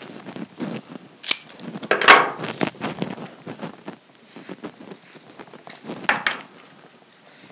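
Handling noises of flower arranging: light clicks, knocks and rustles as a pencil and jonquil stems are pushed into floral foam in a tin container. A louder scraping rustle comes about two seconds in, and another sharp knock about six seconds in.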